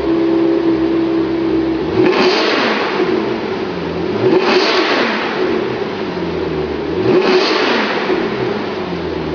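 Maserati Quattroporte engine idling through an iPE performance exhaust and blipped three times, each rev rising sharply and falling back to idle.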